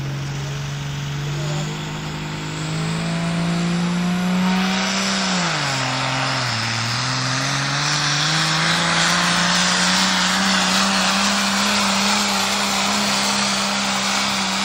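Modified turbo-diesel tractor engine running hard under full throttle. Its pitch climbs, drops briefly about six seconds in, then climbs back and holds high, with a loud hissing rush over it.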